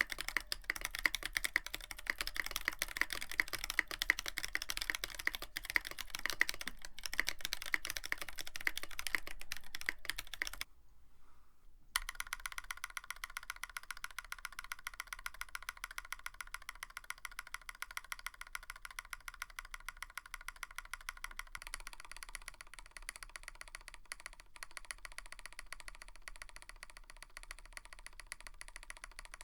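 Typing on a Tofu65 65% mechanical keyboard with a brass plate and PBT keycaps: rapid, continuous keystroke clacks. The typing stops for about a second just over ten seconds in, then resumes on a different set of switches with steadier, evenly spaced keystrokes.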